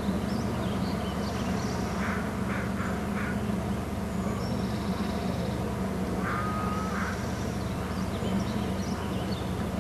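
Birds calling: short calls in quick clusters twice, with thin higher chirps scattered between, over a steady low hum.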